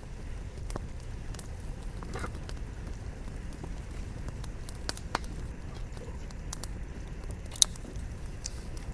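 Firewood burning in a campfire, crackling with scattered sharp pops over a low steady rumble; the loudest pop comes about three-quarters of the way through.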